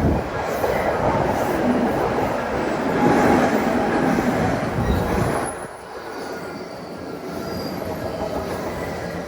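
Odakyu Line electric train passing close by, its wheels and running gear loud on the track, then the noise falling away sharply about five and a half seconds in as it moves off.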